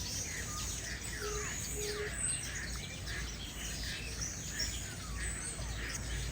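A chorus of many birds calling at once: overlapping whistles that slide downward in pitch, several a second, mixed with short chirps, over a steady low background rumble.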